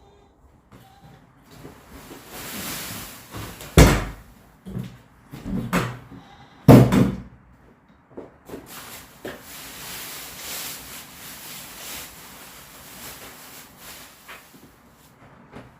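Sheep bleating several times, the loudest calls about four and seven seconds in, amid knocks and a steady rustling.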